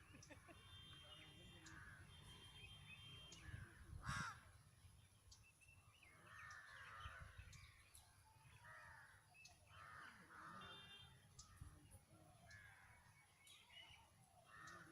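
Crows cawing repeatedly, faint, with many short calls. A brief knock about four seconds in is the loudest sound.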